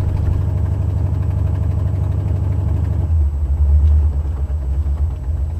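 Buick 455 Stage-1 V8 running at about 1,000 rpm, heard from inside the car's cabin with the windows up, with a rhythmic exhaust pulsing from a leak at the broken #7 exhaust header gasket. About three seconds in, the low rumble grows deeper and louder.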